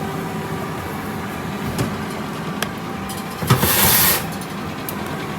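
Steady hum of a running oven, with a few light clicks and a brief loud clatter about three and a half seconds in as the oven is opened and the cornbread pan handled.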